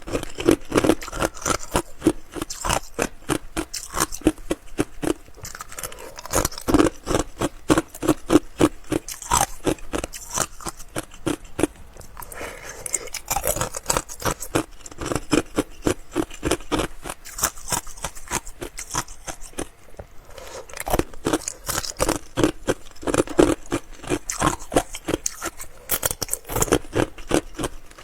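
Close-miked crunching of ice being chewed: runs of rapid, crisp crunches, with short pauses about halfway through and again about two-thirds of the way in.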